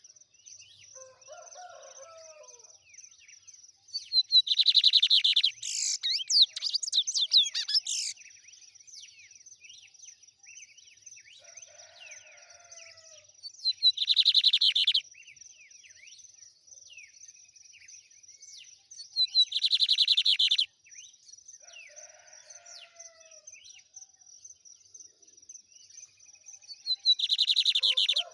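Lined seedeater (bigodinho) singing its fast 'trem bala' song in four loud bursts of rapid high notes. The first burst is the longest, about four seconds, and the others are a second or so each. A thin steady high tone and faint chirps continue between the bursts.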